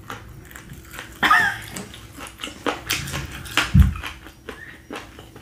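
Close-up chewing of a gristly bite of smoked chicken wing: many small wet clicks and crunches. A short vocal noise comes about a second in, and a single low thump nearly four seconds in.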